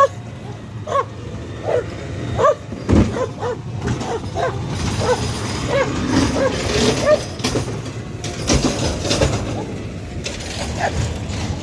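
Dogs barking repeatedly in short calls over the low rumble of a garbage truck's engine, with stretches of mechanical clanking and rattling.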